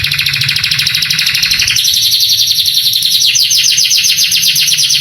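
Male canary singing a long, rapid trill, switching to a different trill about two seconds in and to a faster trill with more distinct notes over the last couple of seconds. A low steady hum runs underneath.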